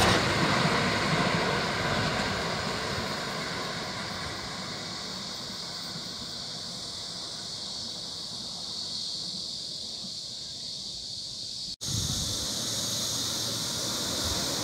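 Passenger train on the riverside railway running past and receding, its rumble and rail noise dying away over several seconds. About twelve seconds in the sound cuts off abruptly and a new stretch begins: a steady high hiss with the low rumble of another train starting to approach.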